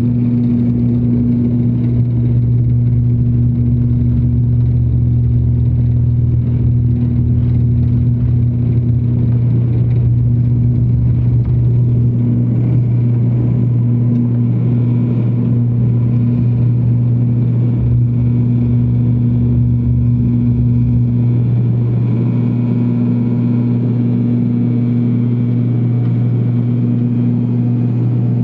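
Airliner jet engines running at takeoff power: a loud, steady drone with a low rumble underneath that drops away about three-quarters of the way through.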